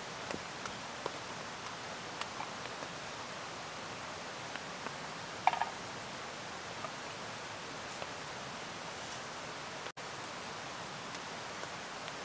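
Bacon cooking in a canteen cup on a gas cooker at low heat, a steady hiss with faint scattered pops.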